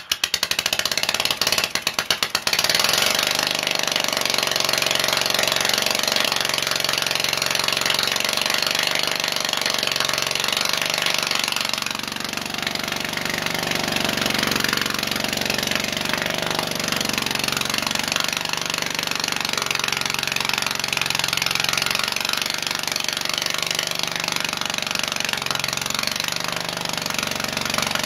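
Garden tractor's 16 hp cast-iron Briggs & Stratton engine running. It is choppy and uneven for the first couple of seconds, then settles into a steady run.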